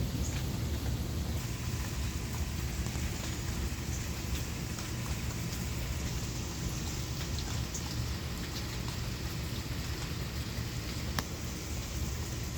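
Steady rain falling during a thunderstorm, with a low rumble underneath and scattered drop ticks, one sharp tap about eleven seconds in.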